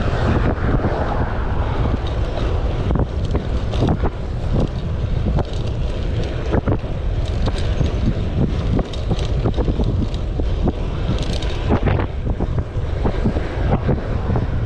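Wind buffeting the microphone while cycling, a steady low rumble, with irregular sharp clicks and knocks throughout.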